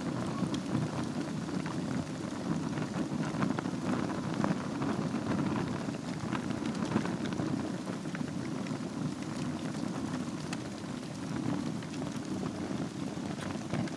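Wood fire burning in a fireplace: a steady low rush of flames with frequent small crackles and pops, one sharper pop about seven seconds in.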